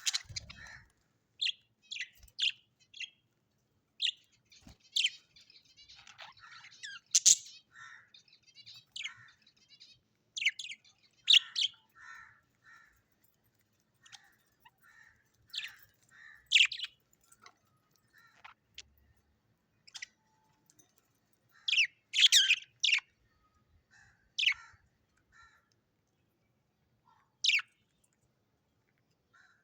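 Small birds chirping: short, high, sweeping calls in scattered bursts with pauses between them, busiest with a run of chatter about six seconds in and a quick cluster about twenty-two seconds in.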